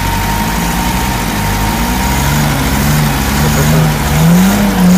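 Vehicle engines running, with a low steady hum under an engine note that rises and falls as it is revved lightly, most noticeably in the second half.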